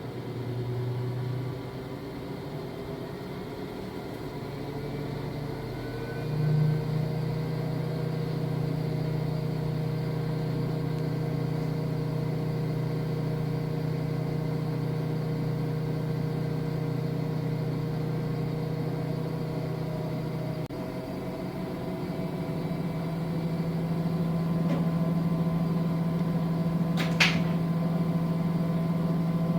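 V-ZUG Adora V2000 washing machine running, its motor hum stepping up in pitch and getting louder twice as the drum speeds up. There is a single sharp click near the end.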